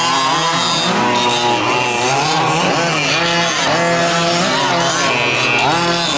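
Several 1/5-scale gas RC trucks' small two-stroke engines racing at once, each revving up and falling back in pitch as the trucks accelerate and lift off over the track, with whines overlapping.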